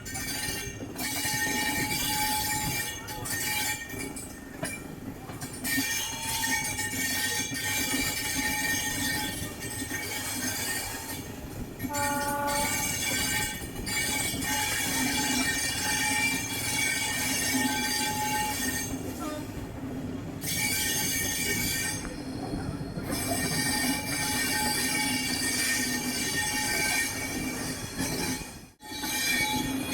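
Express passenger train running on the track, its wheels squealing in steady high-pitched tones, with a brief horn note about twelve seconds in.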